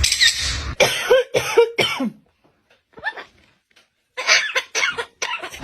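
Coughing: a run of short coughs, a pause of about two seconds, then a second run of coughs.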